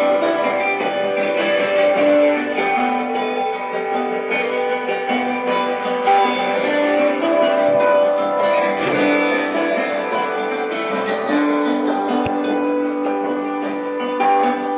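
Guitar music: plucked and strummed notes.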